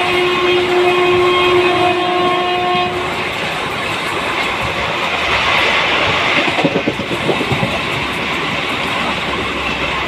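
Express passenger train running at speed, heard from an open carriage doorway. A train horn is held and cuts off about three seconds in. After that comes the rumble and clatter of the wheels over the rail joints.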